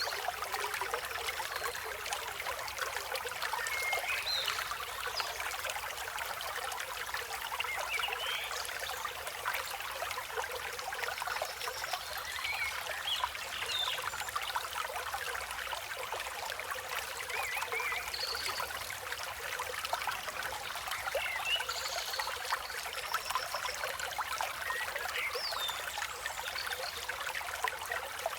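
A river flowing with a steady rush of water. Birds chirp now and then over it in short, scattered calls.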